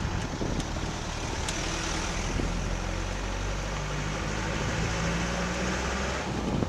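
Land Rover Defender driving along a narrow road: its engine running steadily under road and wind noise, the noise easing off about six seconds in.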